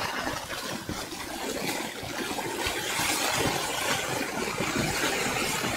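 Steady, even background hiss of room noise, with no distinct events.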